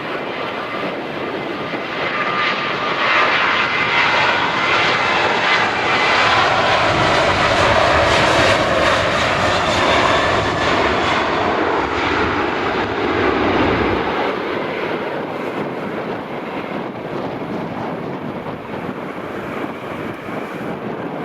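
Airliner engines passing overhead, swelling to a peak about eight seconds in with a whine that falls in pitch, then fading away.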